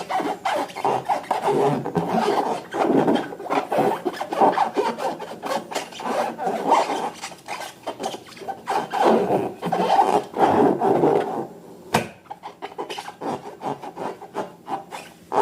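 Continuous rasping, rubbing handling noise from rubber balloons and slime being worked by hand, full of small crackles. It thins out about twelve seconds in.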